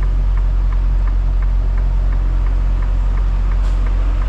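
Semi truck's diesel engine idling as a steady low hum, with a light ticking about three times a second. A brief hiss comes near the end.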